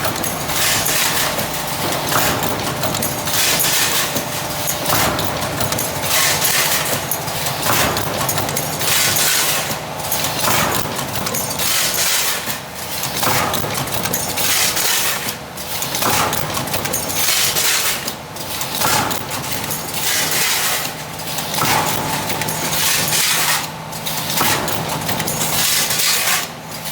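Automatic spot welding machine for square can lids running, with a steady hum under a metallic clatter that repeats in a regular cycle about every two and a half to three seconds as parts are fed and welded.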